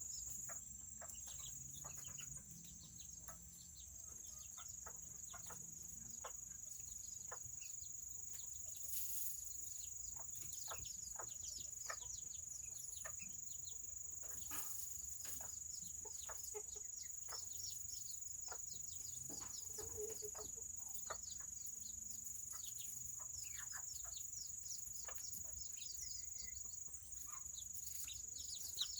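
Serama chickens clucking softly, over a steady high-pitched insect drone and many light ticks.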